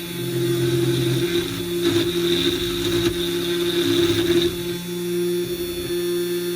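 Fox Alien CNC router running, its motors whining in steady tones that shift in pitch as the machine moves. From about two to four and a half seconds in, a louder hissing cutting noise comes in as the bit cuts the plywood.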